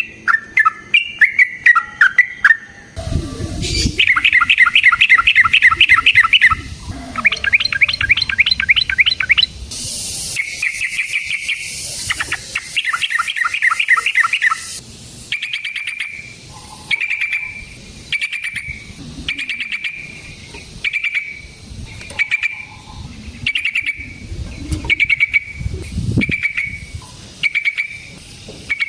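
Yellow-vented bulbul (trucukan) singing loudly: long rapid rolling trills in the first half, then a string of short repeated notes about once a second.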